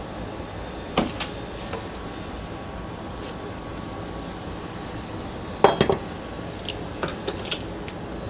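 Scattered metallic clinks and knocks of ceiling fan scrap parts and hand tools being handled, with the loudest rattle of clanks near the middle and a few lighter clicks near the end.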